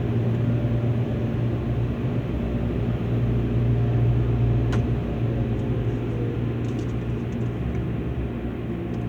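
Car-wash dryer blowers running with a steady low drone, heard from inside the truck's cab, easing off slightly in the second half. A single sharp click about five seconds in.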